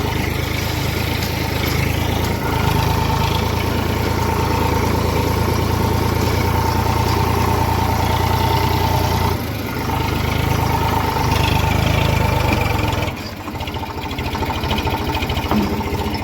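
Eicher tractor's diesel engine running steadily, with a constant whine over a deep hum. It dips briefly about two-thirds of the way through, then settles lower near the end.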